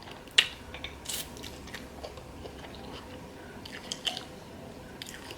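A person chewing and biting into a veggie burger: scattered short, wet clicks and crunches, the sharpest about half a second in.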